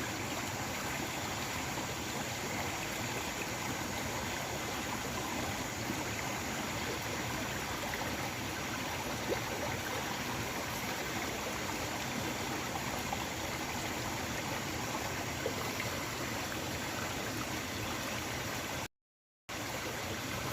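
Small river flowing: a steady, even rush of water that cuts out for about half a second near the end.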